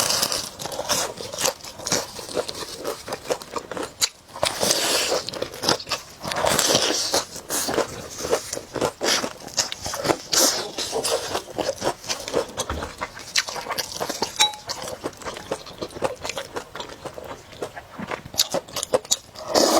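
Close-miked eating sounds: crunchy bites and chewing, with a dense run of irregular crackling clicks and several longer noisy swells of about a second each.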